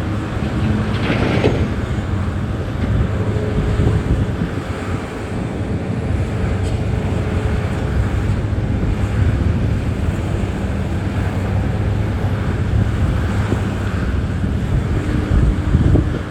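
Diesel engine of heavy mining machinery running steadily, with wind buffeting the microphone. A brief rushing noise comes about a second in.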